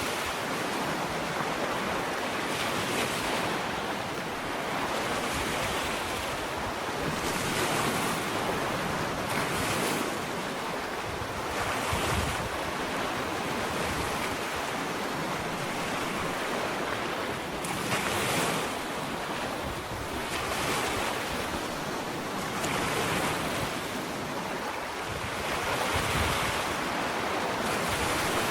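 Ocean waves lapping and breaking on a sandy shore: a continuous wash of surf, with soft swells of spray and hiss every couple of seconds.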